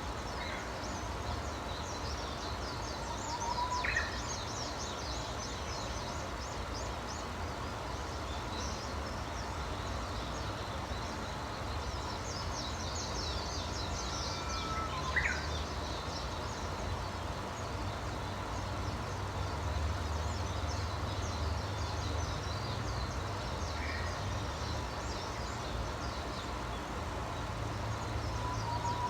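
Wild birds singing: dense high twittering goes on throughout, and a louder, clearer call with a held note that sweeps upward comes about every ten seconds. A steady low rumble runs underneath.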